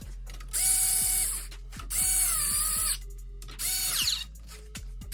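Cordless impact gun run in three short bursts, whirring and ratcheting. In the middle burst the pitch sags and wavers under load. The owner puts the lack of power down to its batteries running low.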